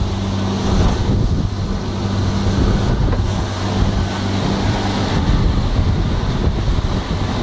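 Small motorboat under way: the engine hums steadily while wind buffets the microphone and water rushes past the hull. The engine's note weakens about five seconds in.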